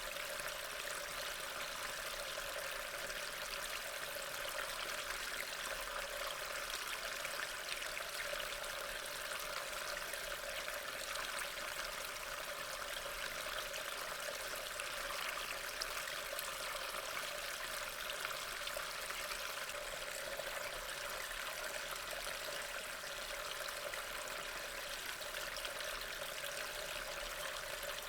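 Steady rain falling, an even wash of many fine drops with no breaks or changes.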